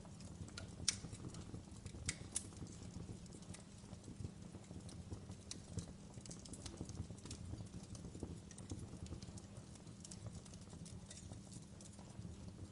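Wood fire burning in a fireplace: a soft low rumble of the flames with irregular crackles and pops, the sharpest about a second in and two seconds in.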